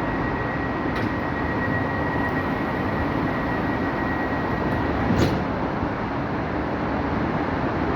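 Ivolga (EG2Tv) electric multiple-unit train running with a steady rumble and a thin high whine that stops about five seconds in. A light knock comes about a second in and a louder one about five seconds in.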